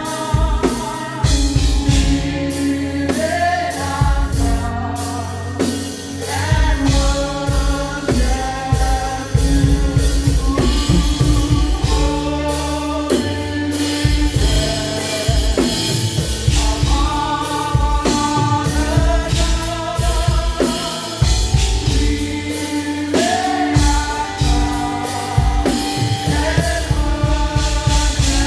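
Live gospel praise music: voices singing a melody over a drum kit and band keeping a steady beat.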